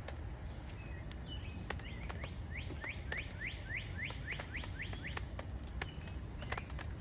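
A songbird singing a quick run of about a dozen down-slurred whistled notes, starting about two seconds in and stopping a couple of seconds before the end, over a steady low outdoor rumble with scattered light ticks.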